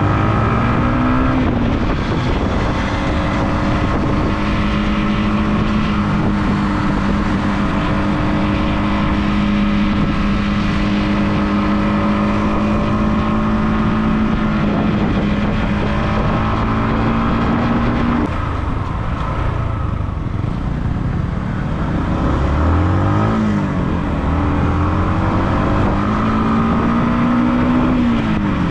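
Motorcycle engine under way at steady cruising revs, with constant wind and road noise. Well past halfway the throttle closes and the engine note falls. It then rises again in two climbs with a brief dip between, like a gear change, and drops once more at the end.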